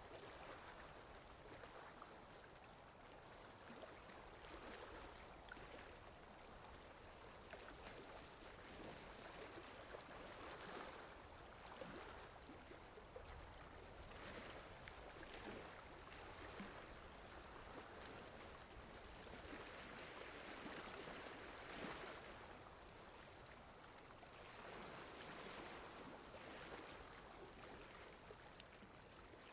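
Faint, steady rainfall, a soft even hiss of falling rain that swells and eases every few seconds.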